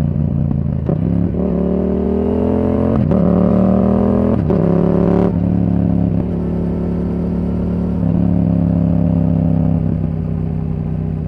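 Yamaha R7's 689 cc parallel-twin through a Yoshimura R77 exhaust with the dB killer out, accelerating hard with the pitch climbing in steps, broken by quick upshifts. About five seconds in the throttle shuts and the note drops, then the bike runs on at a steady cruise.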